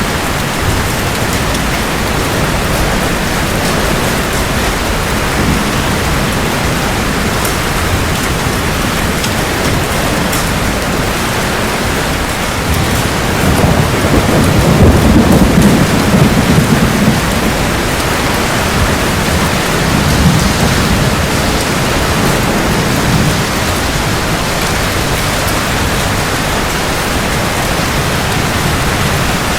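Heavy rain falling steadily, with a roll of thunder that rumbles up about halfway through and fades over several seconds, and fainter rumbles after it.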